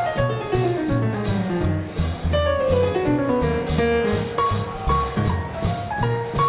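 Small-group swing jazz band playing live: drums and a steady bass line under runs of notes that fall in pitch.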